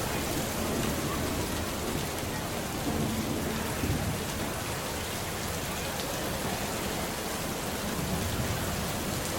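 Steady rain falling, with a low rumble of thunder that swells about three to four seconds in.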